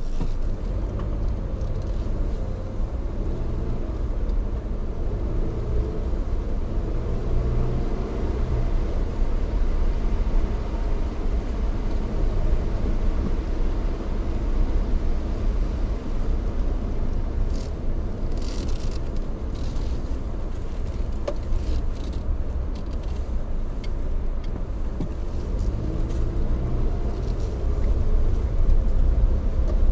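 Steady low rumble of a moving vehicle, with an engine drone that wavers in pitch. A few sharp clicks and rattles come about two-thirds of the way through, and the rumble grows louder near the end.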